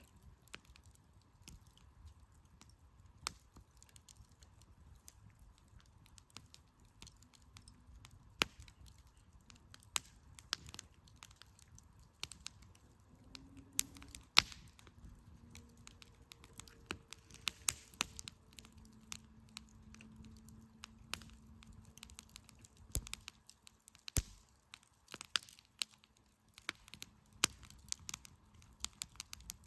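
Firewood fire crackling, with irregular sharp pops and snaps from the burning wood that come thicker in the second half.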